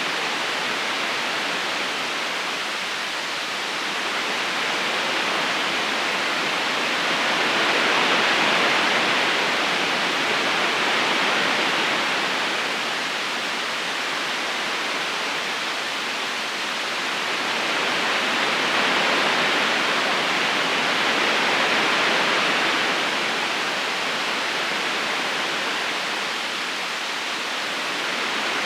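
River current rushing steadily over stones, a dense even sound of flowing water that slowly swells and eases every several seconds.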